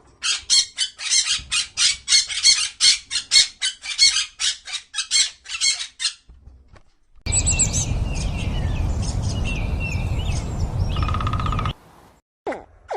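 A bird squawking over and over, about three calls a second, for roughly six seconds. After a short pause, birds chirp over a steady rushing background noise.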